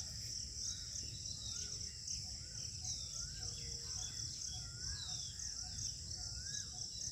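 Outdoor ambience of insects droning steadily at a high pitch, with many short bird chirps scattered over it and a low background rumble.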